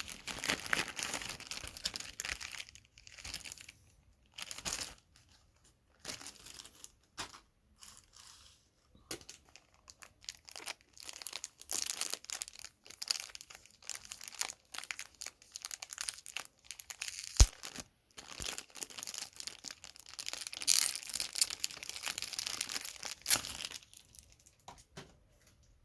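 Packaging being handled while unboxing a space heater: crinkling and tearing in irregular bursts with short pauses, and one sharp knock about two-thirds of the way through.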